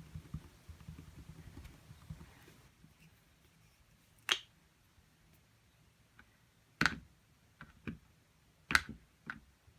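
Soft low scrubbing and pattering at first, then about five sharp, irregularly spaced taps from painting tools in the second half.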